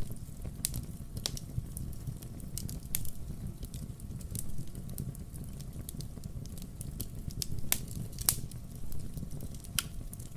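Wood fire crackling: irregular sharp pops and snaps, a few each second, over a steady low rumble.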